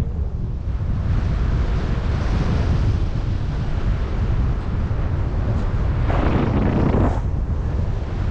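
Wind buffeting the microphone of a paraglider pilot in flight: a steady low rumble of rushing air. A stronger gust comes about six seconds in.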